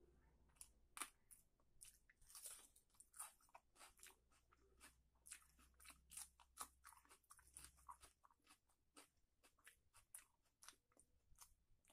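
Close-up mouth sounds of chewing a mouthful of rice and chicken curry eaten by hand: a quiet, irregular run of soft wet clicks and small crunches.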